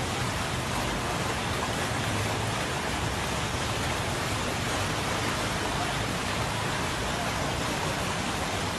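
Steady, even rush of water during a heavy downpour and flash flood.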